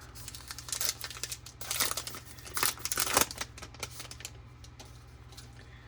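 Wrapper of a baseball card pack crinkling and tearing as it is opened by hand, in a run of bursts over the first three seconds or so, then quieter handling.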